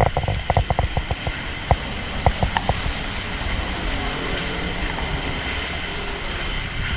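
Typhoon rain and wind, a steady rushing hiss with low rumble, broken by a quick run of sharp taps and knocks during the first few seconds.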